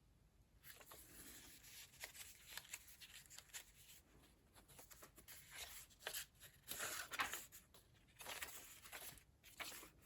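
Paper pages of a thick handmade junk journal being turned by hand: soft, scattered rustling and brushing of paper, loudest a little past the middle.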